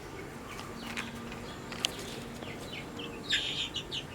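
Small birds chirping in short high calls, thickest near the end, with a single sharp click a little before the middle.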